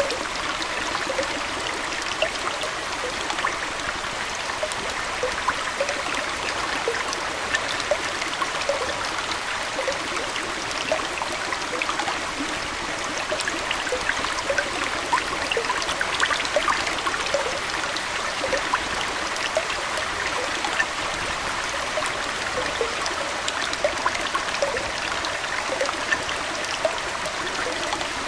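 Aquarium water trickling steadily, with a constant patter of small splashes and bubble pops.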